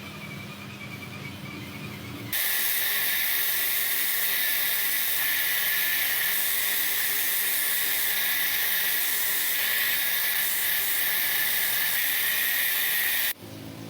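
A loud, steady hiss like a pressurised jet of air or spray, starting sharply about two seconds in and cutting off abruptly near the end. Before it there is a quieter low hum.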